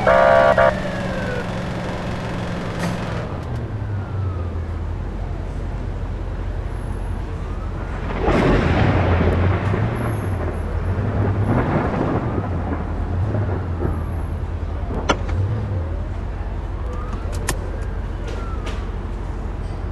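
Police car siren wailing, with a short loud horn-like blast right at the start; after that the slow rising-and-falling wail carries on fainter over steady traffic rumble, with two swells of rushing noise from passing vehicles.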